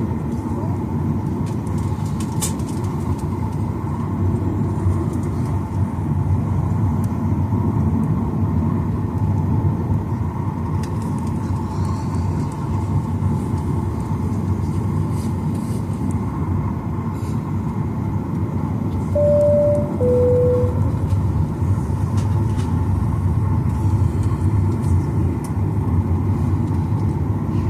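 Steady cabin rumble of a Boeing 737-900ER taxiing, its CFM56-7B engines at idle. About two-thirds of the way through, a two-tone cabin chime sounds once, a higher note then a lower one.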